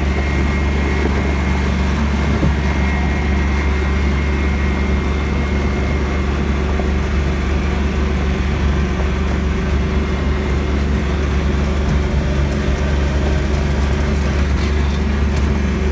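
Tractor engine running steadily at a constant speed, loud and close.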